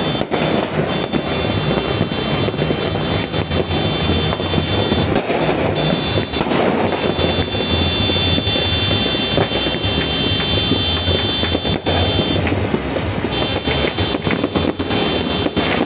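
New Year's Eve fireworks and firecrackers going off all around in a dense, unbroken crackle of pops and bangs. A steady high-pitched tone sounds over it, breaking off and coming back a few times.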